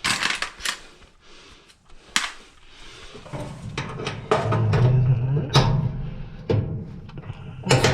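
Sharp metallic clicks and knocks of hand tools and parts being handled while working on a dryer's blower assembly, about one every second or so.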